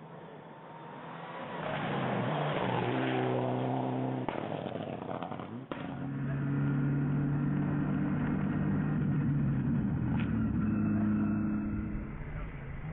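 Rally car engine revving hard under acceleration. Its pitch climbs from about two to four seconds in and breaks off suddenly near six seconds. It then holds a steady high note until the revs drop near the end.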